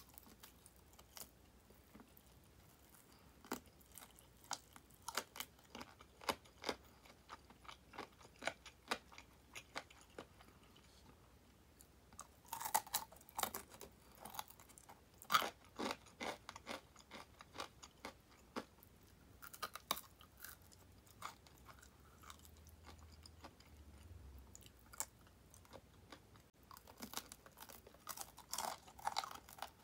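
Crispy deep-fried chicken tulip drumettes being bitten and chewed close to the microphone: many sharp crackles of the batter coating, coming in clusters, densest about halfway through and near the end.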